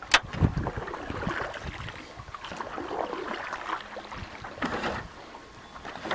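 Canoe paddling: a couple of sharp knocks right at the start, then paddle strokes swishing and splashing in the water.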